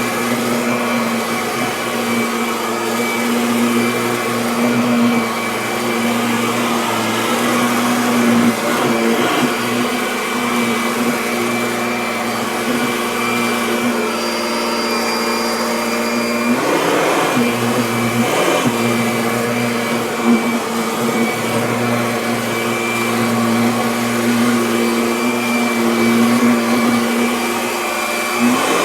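Kirby Avalir upright vacuum cleaner running steadily on carpet, a loud motor hum that dips briefly in pitch twice near the middle.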